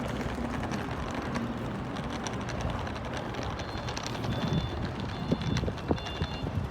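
Busy outdoor waterfront ambience: wind noise on the microphone over a steady wash of crowd and city noise, with scattered sharp clicks. From about halfway through, a high beeping tone comes and goes.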